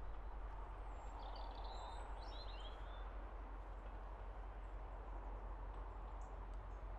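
A steady low outdoor rumble, with a small bird twittering in a short burst of quick chirps between about one and three seconds in, and a few faint high chirps later.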